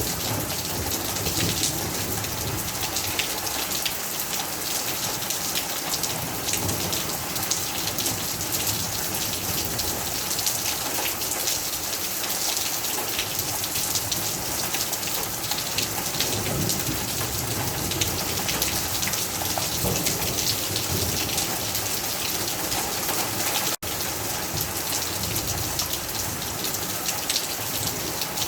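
Heavy rain falling steadily, a dense hiss of drops pattering on a surface. It cuts out for an instant about three-quarters of the way through.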